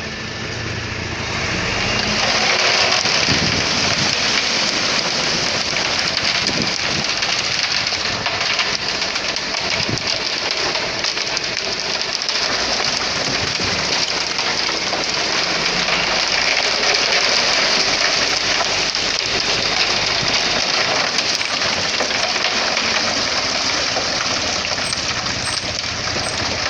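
Concrete mixer truck discharging concrete: a steady rushing hiss of wet concrete pouring out, swelling up about a second in, with the truck's engine running underneath.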